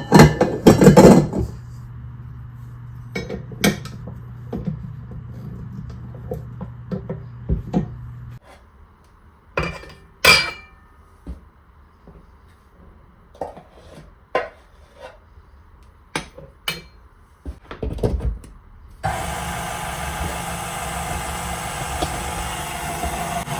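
Kitchen clatter while baking: bowls, utensils and dishes clinking and knocking, loudest at the very start. About nineteen seconds in, an electric mixer starts and runs steadily with a motor whine.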